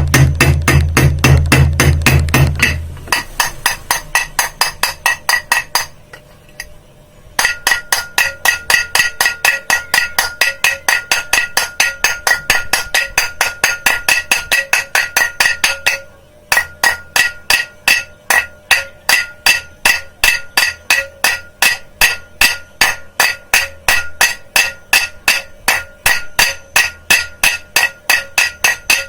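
Rapid, even hammer taps, a few a second, driving a new ball bearing into a ceiling fan's lower end cap by striking around all four sides; the metal rings under the blows. The tapping stops briefly twice, and a low hum sounds under it for the first few seconds.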